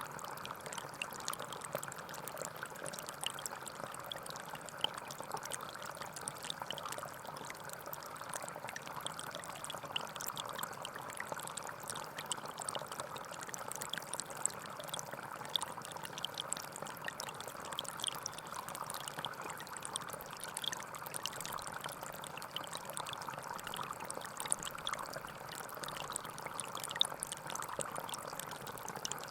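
Gentle forest stream flowing and trickling steadily, with small splashes of water throughout.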